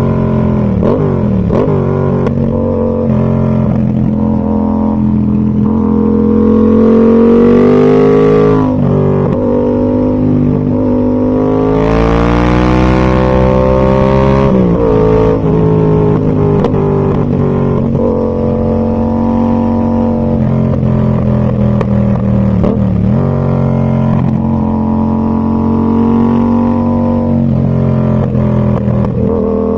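Yamaha MT-07's 689 cc parallel-twin engine through an aftermarket Zard full exhaust system, heard while riding. The engine pitch climbs under acceleration and drops abruptly at gear changes about eight and fifteen seconds in, then runs at a fairly steady pitch while cruising.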